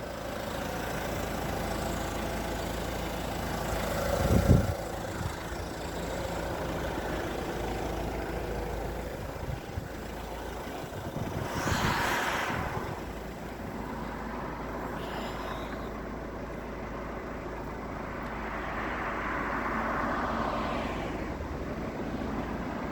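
Road traffic: vehicles passing one after another over a steady engine rumble, with a short low thump about four and a half seconds in.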